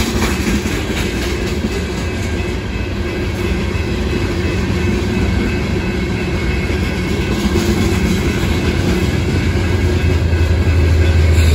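Loaded aggregate gondola cars of a freight rock train rolling steadily past. Near the end the low drone of an approaching diesel locomotive builds and grows louder.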